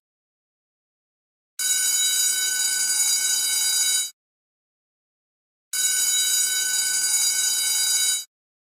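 School bell ringing in two bursts of about two and a half seconds each, with silence between them.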